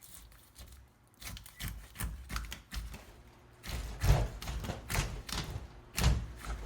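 Irregular knocks and taps of fish-cutting work with a knife on a cutting board, with two louder thumps about four and six seconds in.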